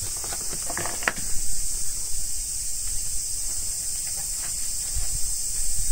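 Steady high-pitched drone of an outdoor insect chorus, with low rumble and a few soft knocks about a second in.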